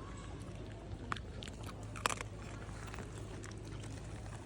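A dog chewing and crunching food, with a few sharp crunches about one and two seconds in.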